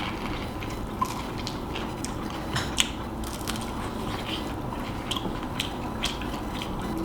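A person chewing crunchy food close to the microphone: irregular crisp crackles and crunches, a few sharper ones about a second in and near three seconds in.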